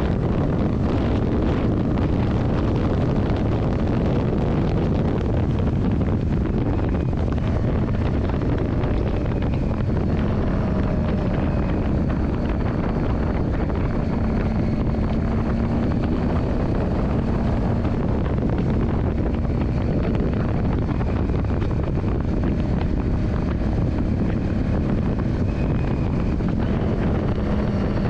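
Yamaha Drag Star 400's air-cooled V-twin engine running steadily while the bike is ridden, mixed with heavy wind rush on the microphone.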